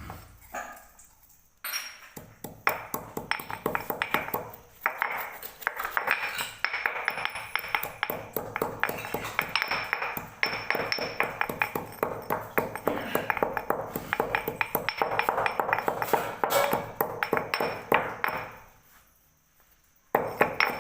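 Stone pestle pounding cumin and pepper in a mortar: quick, uneven knocks with ringing clinks where the stone hits the mortar's sides. It starts about two seconds in, falters briefly, then keeps going until it stops near the end.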